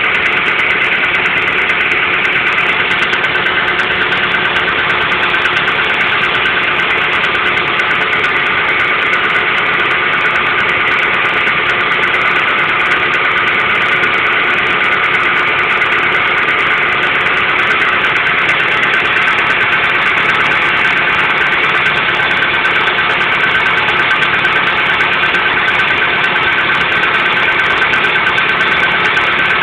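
Hyundai Getz petrol-or-diesel-unspecified engine idling steadily, with the knock or ringing noise its owner is trying to pin down.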